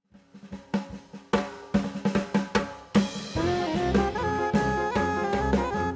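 Background music: a drum intro of snare and bass drum hits for about three seconds, then a jazzy band with horns and bass comes in.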